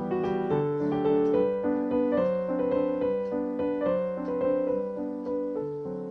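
Background piano music: a gentle melody of notes struck one after another.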